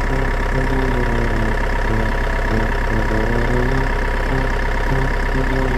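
A steady engine-like hum with a simple melody of short stepping notes over it.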